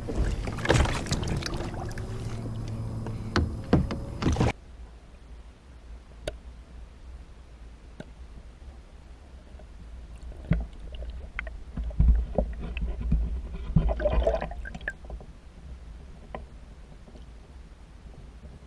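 Water sloshing and splashing around a kayak, with scattered knocks and clicks against the hull, as a muskie is released. It is loud for the first few seconds, then drops suddenly to quieter water and occasional knocks, with a cluster of them about 14 seconds in.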